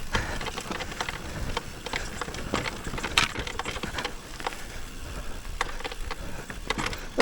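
Mountain bike rolling down a rough dirt trail: tyre noise over dirt and roots with frequent irregular clicks and rattles from the bike, and a low rumble of wind on the microphone.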